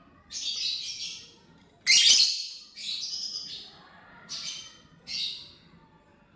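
Lovebird giving a run of five short, harsh, high-pitched chirps and squawks, the loudest about two seconds in.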